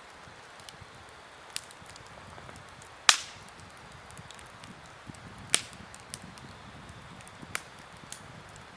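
Campfire crackling: sharp pops from the burning wood, the loudest about three seconds in and another about halfway through, over a steady low hiss from the flames.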